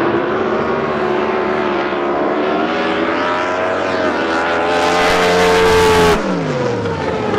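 Racing drag boat engine at full throttle during a run, its pitch climbing steadily. Near six seconds the loudest part cuts off abruptly and the engine note falls away.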